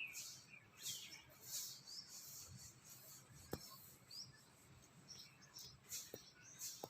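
Faint, scattered bird chirps over a near-silent background, with a few soft clicks.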